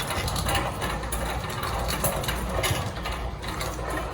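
Irregular rattling and clicking over a steady low hum.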